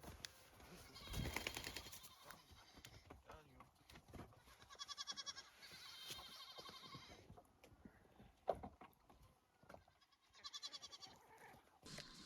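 Goats bleating faintly, two short quavering bleats.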